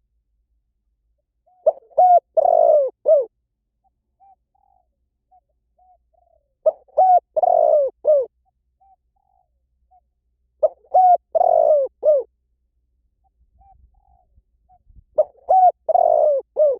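Spotted dove cooing: a phrase of three or four coo notes repeated about every four seconds, four times, with faint short notes in the gaps between phrases.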